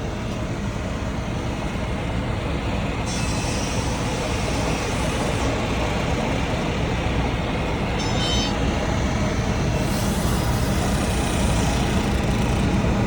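A heavy engine running steadily with a low rumble, growing slightly louder over the span, like a mobile crane or truck working a construction site.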